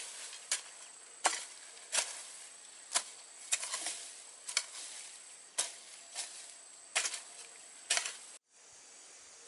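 Repeated sharp strikes, roughly one a second, some followed by a short gritty crunch; they cut off suddenly near the end, leaving a steady faint hiss.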